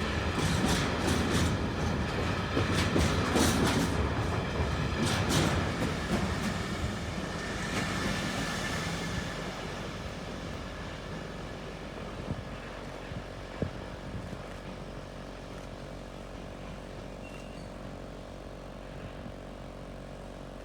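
A train running on the line, its wheels clicking over rail joints. It is loud for the first several seconds, then fades after about eight seconds to a low steady hum.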